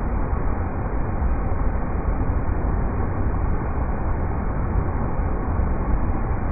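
River rapids rushing steadily, a dense, even noise heaviest in the low end and dull-sounding, with no high sparkle and no changes.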